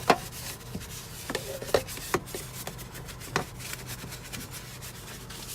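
Stiff scrub brush scrubbing degreaser-soaked dirt on truck cab interior surfaces, in irregular scraping strokes, loosening the caked dirt before steaming.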